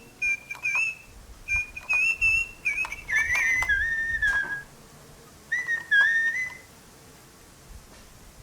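Electronic bird chirps from a Little Live Pets Lil' Birds toy: a series of short whistled tweets in several phrases, the last ones dropping lower in pitch, stopping about six and a half seconds in.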